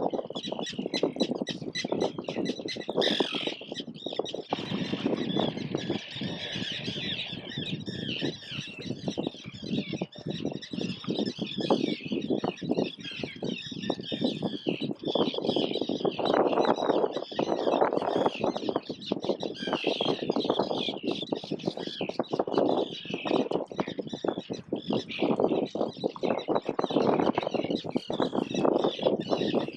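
Gulls calling, many overlapping squawks, over a loud rough rushing noise.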